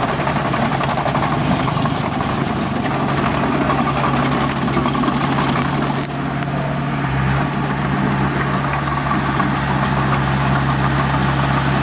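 Heavy earthmoving machine's diesel engine running steadily with a low drone, dipping briefly about six seconds in.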